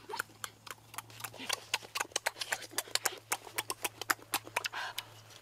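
Raw guava fruit being bitten and chewed: a run of crisp, irregular crunching clicks, several a second.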